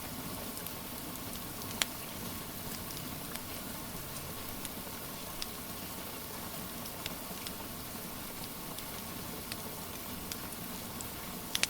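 Steady rain hiss mixed with a wood fire crackling: scattered sharp pops, a louder one about two seconds in and two close together near the end.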